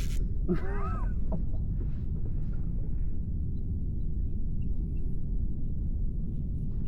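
Steady low wind rumble on the microphone. About half a second in comes a short bird call that bends up and down in pitch.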